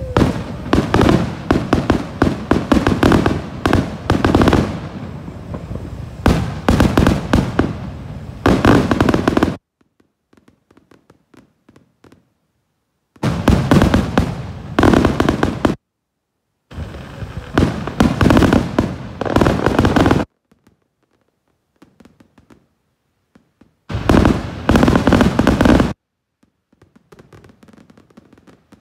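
Aerial fireworks display: rapid, overlapping shell bursts and crackling in four loud stretches, the first and longest lasting about nine seconds, with only faint scattered crackles in the gaps between.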